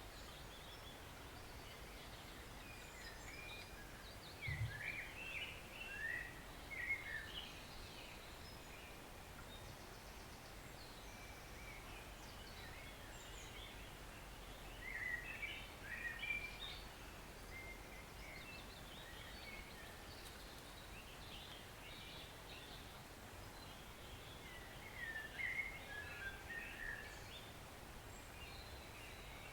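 Steady, soft rush of a woodland stream, with a songbird singing short phrases of quick sweeping notes three times over it.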